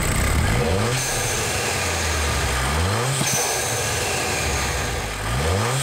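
Turbocharged four-cylinder engine of a tuned VW Golf 6 R heard from inside the cabin, its note rising three times as the car accelerates, dipping briefly after the middle rise.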